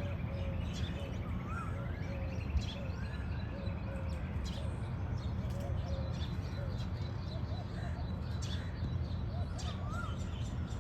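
Plum-headed parakeet calling: short chirps and rising-and-falling whistled notes repeated throughout, over a steady low background rumble.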